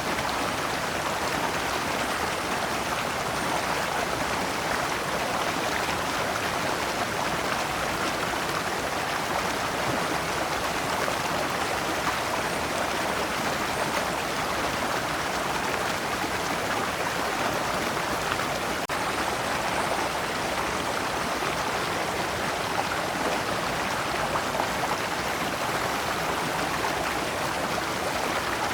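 Shallow rocky stream flowing over large stones in small cascades: a steady, even rush of water.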